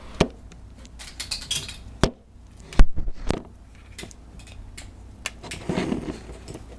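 Handling noise: a few sharp knocks and clicks as something is set down and adjusted, the loudest just under three seconds in, followed by a brief rustle near the end.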